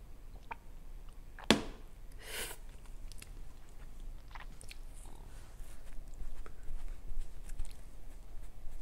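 Close-miked mouth sounds of chewing and swallowing, picked up by a lapel mic. A single sharp knock about a second and a half in is the loudest sound, followed by a short hiss and scattered small wet clicks that grow busier near the end.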